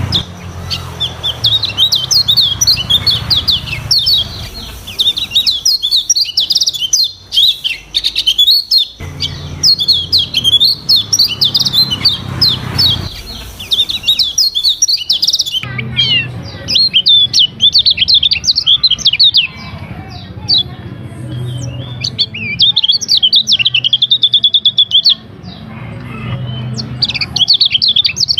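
Kecial kuning white-eye singing a fast, varied twittering song: long runs of quick high chirps, with a short lull about a quarter of the way through.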